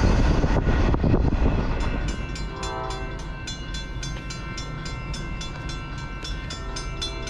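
A freight train rolls past with heavy wheel rumble. It gives way to a railroad grade-crossing bell dinging rapidly and evenly, and a train horn sounds briefly about two and a half seconds in.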